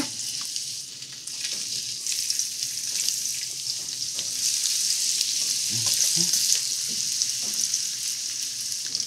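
Slices of butternut squash sizzling as they are laid into hot vegetable oil in a stainless steel skillet. The sizzle builds over the first couple of seconds as more slices go in, then holds steady.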